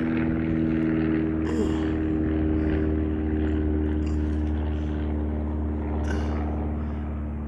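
Propeller airplane flying over, a steady low drone that eases slightly near the end.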